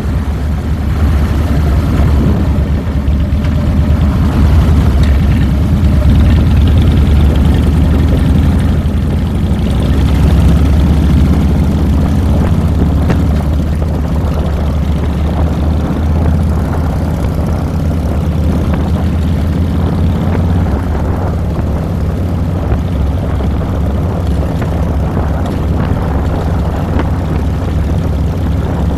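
Harley-Davidson Fat Boy's air-cooled Twin Cam 96B V-twin engine running steadily under way, heard from the handlebars with a deep low rumble.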